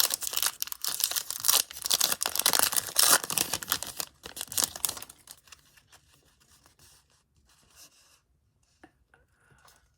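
A trading-card pack wrapper being torn open and crinkled: a dense run of tearing and rustling that stops about five seconds in, then only a few faint ticks.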